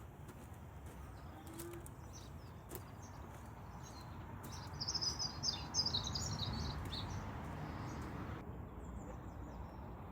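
Small songbirds chirping, with a quick burst of high notes about halfway through and a few fainter chirps near the end, over a steady low outdoor rumble.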